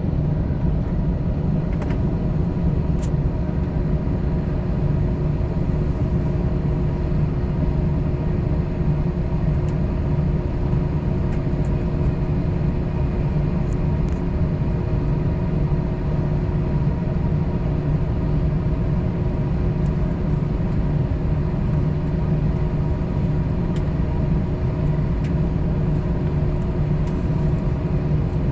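Cabin noise inside an Airbus A321 on the ground before takeoff, with the engines at idle. It is a steady low rumble with an even hum on top and a few faint ticks.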